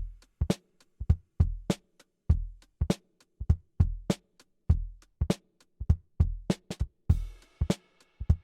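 Hip hop drum beat: kick and snare alternate at about 100 beats a minute, with lighter hi-hat ticks between, over faint sustained backing chords.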